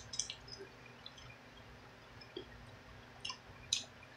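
Faint wet mouth sounds of someone eating a chicken wing: a few short smacks and clicks, one just after the start and two near the end.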